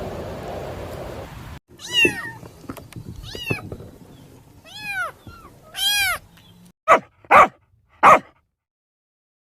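A cat meowing: four drawn-out meows that rise and fall, then three short, loud calls in quick succession. A steady rushing noise cuts off suddenly before the first meow.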